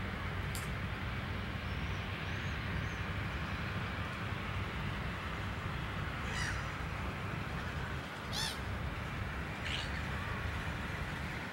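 A bird giving a few short calls, the loudest about eight and a half seconds in, over a steady low background rumble.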